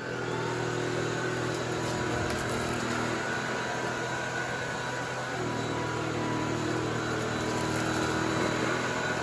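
Kalado cordless stick vacuum's brushless motor switched on and running steadily, a constant whirring hum with a rush of air, its tone shifting slightly a few seconds in.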